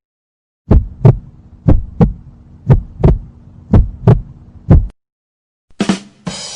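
Heartbeat sound effect: about five double 'lub-dub' thumps, roughly one a second, over a faint low hum. Near the end a short sharp sound and the start of a hissing sound from the next effect.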